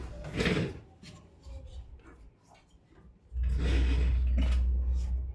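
Clicks and rustling from handling TV parts, followed about three seconds in by a loud, steady low hum with rustling over it that cuts off suddenly.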